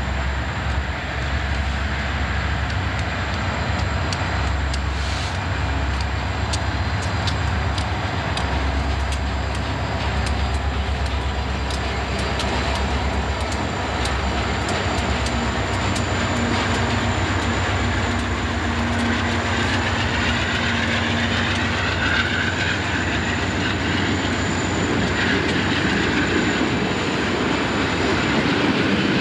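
Conrail diesel locomotives and freight train passing close by: engines running with a steady low rumble while the wheels click over rail joints. A thin high whine comes in over the last third.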